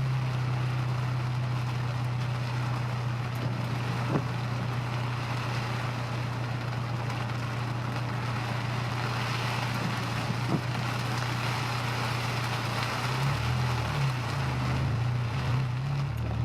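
Honda S2000 heard from inside the car while driving: a steady low engine drone under an even hiss of road and wind noise. Near the end the engine drone turns uneven.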